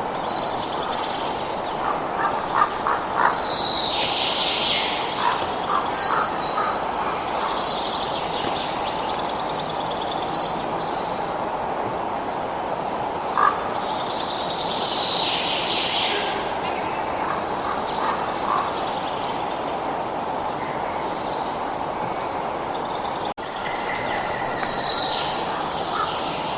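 Birds calling: short repeated high chirps and a few longer calls that fall in pitch, over a steady rushing background noise. There is a brief dropout a few seconds before the end.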